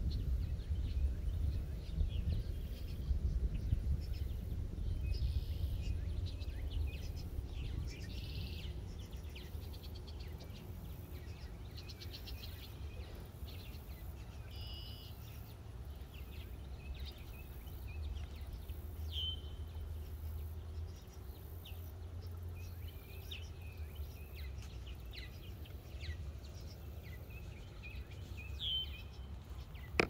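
Scattered short bird chirps and calls over a steady low rumble.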